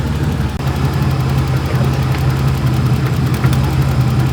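Nissan RB30 3.0-litre straight-six idling steadily in an R31 Skyline; the engine is running rich, which the owners put down to a missing O2 sensor.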